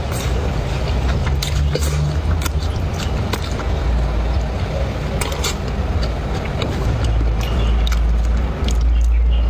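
Eating sounds: short sharp clicks and crunches of chewing and utensils, scattered irregularly over a steady low rumble that grows a little louder near the end.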